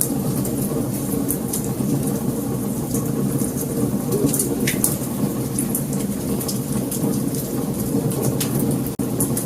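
Wood fire burning: irregular sharp crackles and pops over a steady low rumble of the flames. The sound cuts out for an instant near the end.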